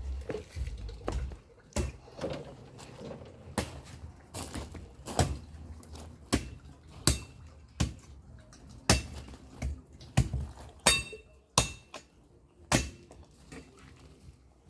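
A machete chopping into a freshly picked coconut: about fourteen sharp strikes at uneven intervals, a few with a short metallic ring.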